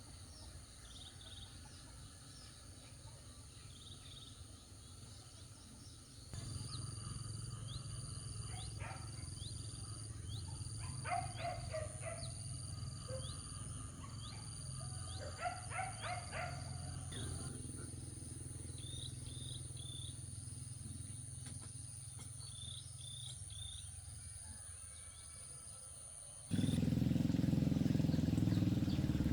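Outdoor rural ambience: short bird chirps over a steady high-pitched tone, with a few brief clusters of clicks. About three seconds before the end it switches abruptly to a loud engine running.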